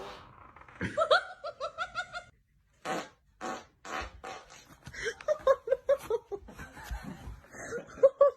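A person laughing in quick bursts, with a few short noisy blasts in between.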